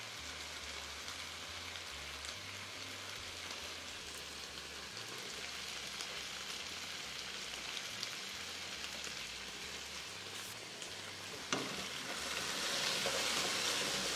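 Diced potatoes frying in the olive oil and fat left from browning chicken, a steady sizzle in the pan. About three-quarters of the way through there is a sharp click, and the sizzle grows louder after it.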